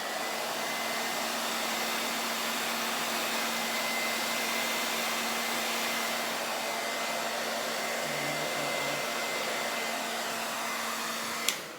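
Hair dryer running steadily on one setting, blowing wet fluid acrylic paint across a canvas in a Dutch pour. It switches off with a click near the end.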